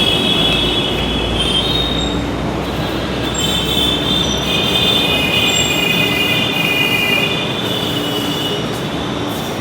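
Delhi Metro train running on the rails with its wheels squealing: several high, shrill tones that come and go over a steady loud rumble, easing a little near the end.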